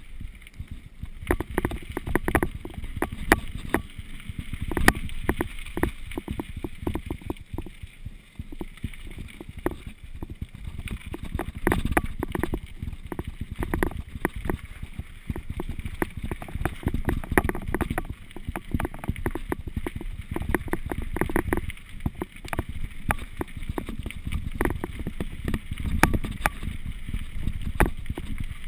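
Mountain bike ridden over rough ground: a steady low rumble with frequent knocks and rattles.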